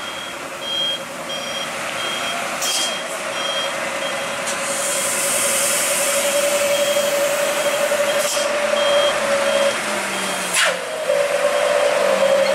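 Heavy machinery engine running under load with a steady whine, while a reversing alarm beeps about twice a second. Several short hisses of released air cut in, and near the end the engine note drops briefly before recovering.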